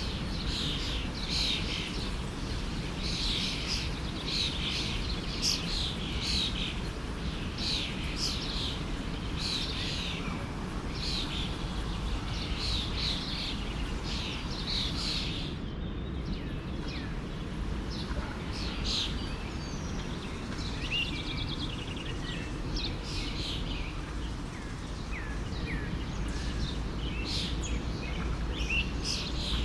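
Many small birds chirping and singing over the steady rush of a forest stream. The chirping is dense for about the first fifteen seconds, then thins out to scattered calls.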